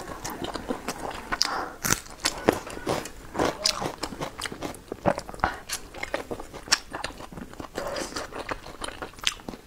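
Close-miked chewing and biting of soft dumplings, with many short, irregular mouth clicks.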